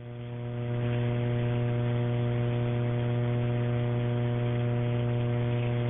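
Steady electrical hum with static hiss on an open telephone line, narrow and tinny in the way of a phone recording. It swells over the first second, then holds steady.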